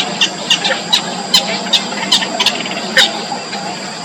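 Baby birds in the nest begging, with short, high chirps two to three a second while they are being fed. A steady low hum and a thin high whine run underneath.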